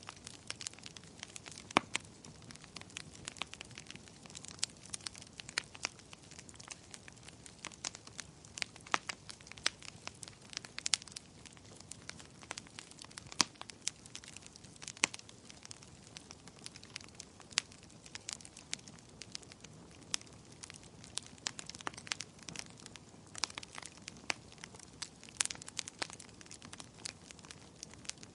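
Wood fire crackling: a soft steady hiss of burning with frequent sharp, irregular pops and snaps, a few of them much louder.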